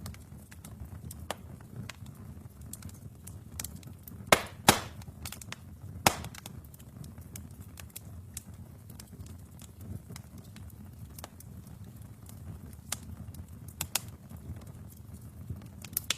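Wood fire burning in a fireplace: a steady low rumble of flames with scattered crackles and pops, the loudest a cluster of sharp cracks a little over four seconds in and another at about six seconds.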